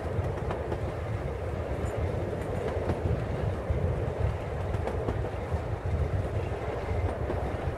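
Steam-hauled passenger train carriage running along the track, heard from the carriage window: a steady rumble of wheels on rails with occasional faint clicks.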